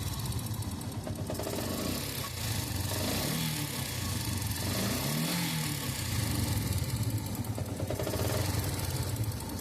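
Yamaha FZ16's single-cylinder engine running near idle, its speed rising and falling briefly twice, with a strange noise that the owner places in the top end of the engine and cannot identify.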